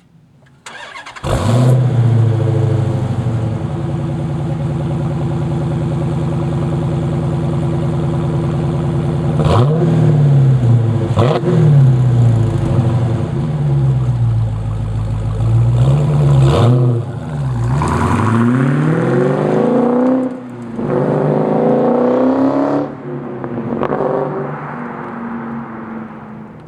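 Dodge Challenger SRT 392's 6.4-litre HEMI V8 through its stock exhaust, starting loud about a second in and pulling away under acceleration. Its pitch rises and drops several times as it shifts through the gears, then fades over the last few seconds as the car moves off.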